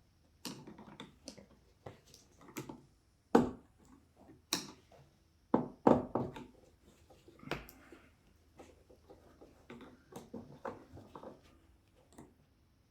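Irregular knocks and clicks of hand tools being handled and fitted against metal, a few of them much louder than the rest.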